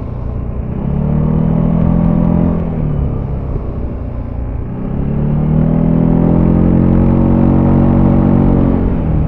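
Zontes E350 scooter's single-cylinder engine under way, revving up twice as the throttle opens: a short rise that drops back, then a longer climb held for several seconds before falling away near the end, over a steady low rumble.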